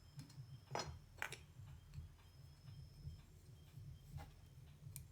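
Faint, sharp clicks and light taps of small tools and parts being handled at a workbench, four in all, over a low steady hum.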